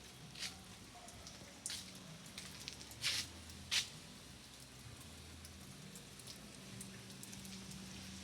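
Rain dripping and pattering: scattered drops and splats over a faint hiss, the loudest coming about three to four seconds in, with a steady low hum underneath.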